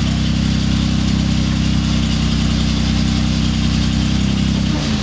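Rock-crawling off-road vehicle's engine running steadily at low revs, with a level shift in its tone just before the end.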